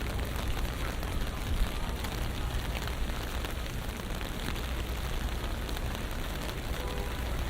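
Steady rain falling on a city street, with the low, steady rumble of traffic underneath.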